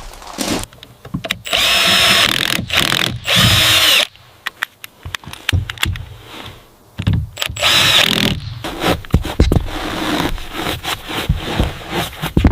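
Power drill running in two bursts, one of about two and a half seconds and a shorter one of about a second, amid scattered knocks and clatter of building work.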